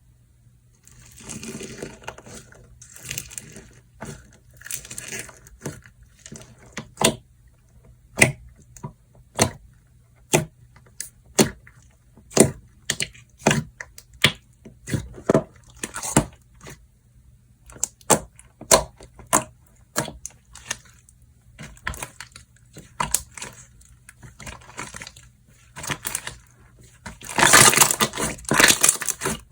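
Hands playing with slime: soft squishing and stretching, then a run of sharp clicking pops about once a second as the slime is pressed and folded, and a dense burst of crackling near the end.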